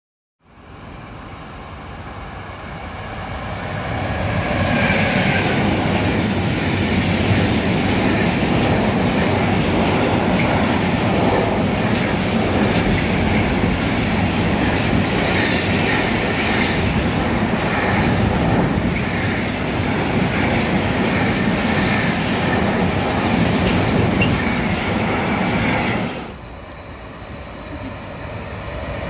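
A long container freight train rolling past close by: a steady loud rumble of wagons with wheels clicking rhythmically over the rail joints. About 26 seconds in it cuts off abruptly to a quieter scene where a second electric-hauled freight train is heard approaching, growing louder.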